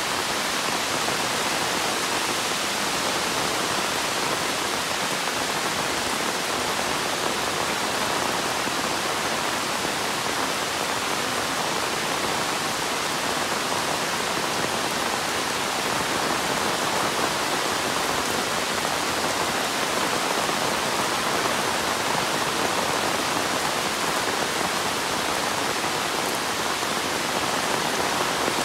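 Heavy monsoon rain falling steadily as a dense, even hiss.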